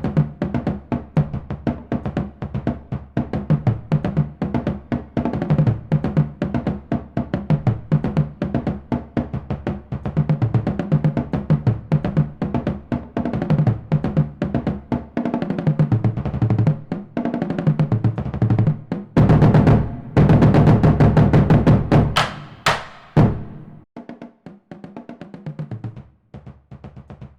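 Background music: a drum-heavy track with dense, fast, steady drum hits over a strong bass. It gets quieter and thinner about three-quarters of the way through.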